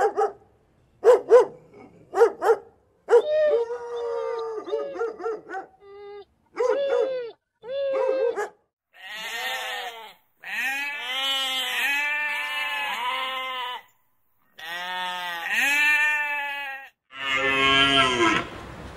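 A dog barks a few times, then gives a run of shorter pitched calls. Sheep then bleat in long wavering calls, and near the end a cow begins to moo.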